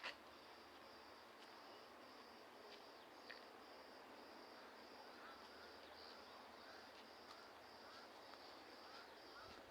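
Faint insect chirping in a steady high trill that pulses about twice a second, with a few soft bird chirps and a single click at the start.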